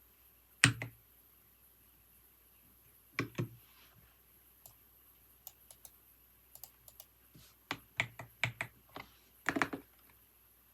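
Computer keyboard typing in irregular spurts: a single heavy keystroke, a pair a little later, scattered light taps, then a quicker run of keystrokes that ends in a few louder, heavier strokes near the end.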